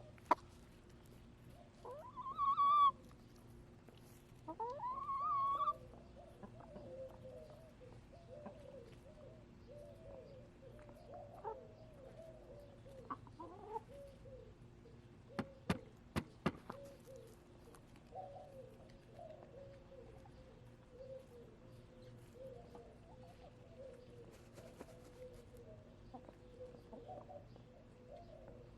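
Backyard hens clucking softly: a long run of low, short murmured notes, broken about two and four seconds in by two louder, drawn-out rising calls from a hen. A few sharp clicks come about halfway through.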